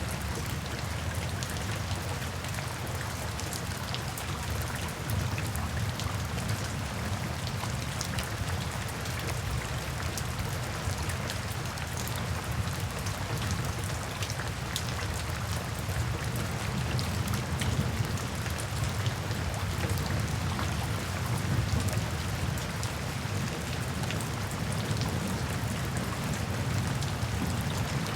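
Steady rainfall, a continuous hiss dotted with the small ticks of separate drops, over a steady low rumble.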